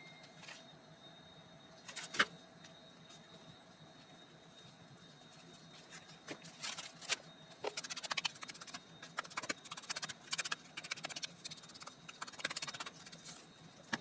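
Handling noises: a few scattered knocks and clicks, then from about six seconds in a long run of rapid crackling clicks that stops shortly before the end.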